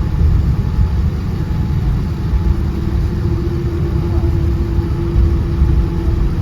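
United Boeing 787-10 airliner's engines heard as a steady, loud low rumble with a constant mid-pitched hum that grows stronger about halfway through.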